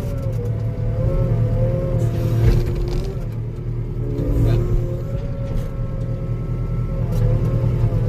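Skid steer engine running steadily under load while driving over soft, muddy ground, with a wavering whine above the low rumble.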